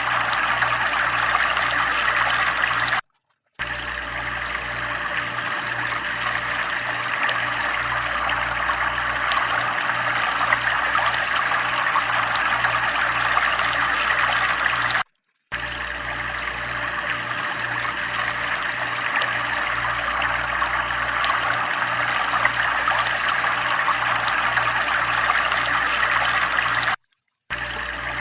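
Water running steadily from a tubewell, a dense splashing rush with a faint low pulse beneath it. It drops out to silence for a moment three times, about twelve seconds apart.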